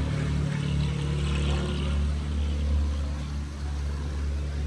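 Car engine running with a steady low drone, heard from inside the cabin.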